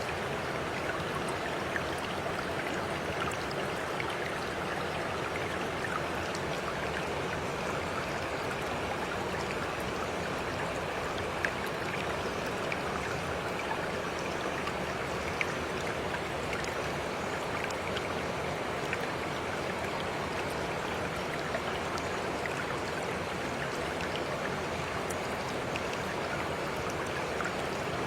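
Steady running water, as of a flowing stream, with a few faint ticks here and there.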